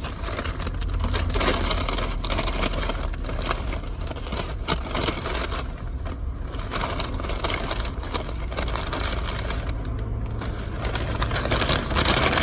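Paper fast-food bag rustling and crinkling as it is opened and the food inside is checked, over the low hum of a car engine idling.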